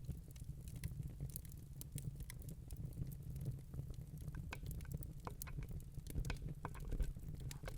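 Wood fire crackling in a fireplace: irregular sharp snaps and pops from burning logs over a steady low rumble of the flames.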